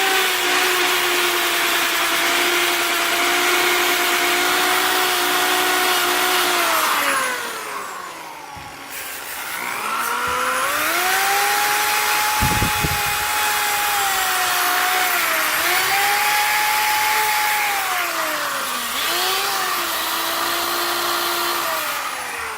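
Electric power tool spinning an abrasive fiber wheel, stripping powder coat and corrosion off a winch's aluminum housing. The motor whine holds steady, winds down and stops about a third of the way in, then spins back up and sags in pitch a few times as it is pressed into the work.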